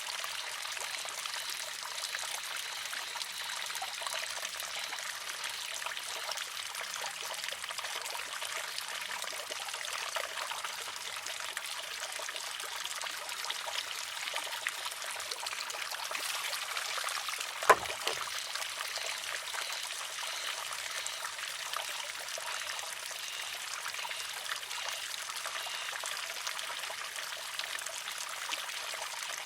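Water trickling steadily through a wooden shishi-odoshi, with one sharp wooden clack a little past the middle as the filled arm tips over and strikes its rock.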